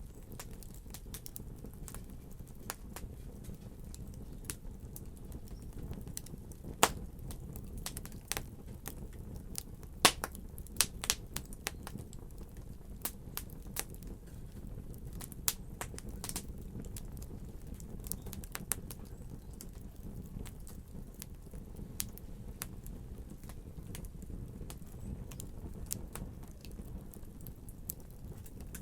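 Fire burning in a fireplace: a steady low rumble of flames with frequent crackles and pops, the loudest snaps about 7 and 10 seconds in.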